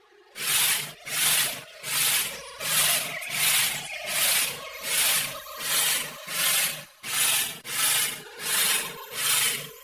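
Rhythmic rubbing or scrubbing strokes, about thirteen in a row at an even pace of roughly one and a half a second, each a short hiss.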